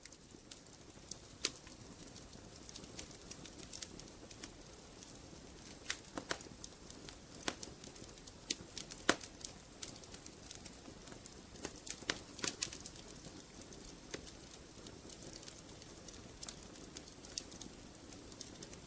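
Wood fire crackling: irregular sharp pops and clicks over a soft steady hiss.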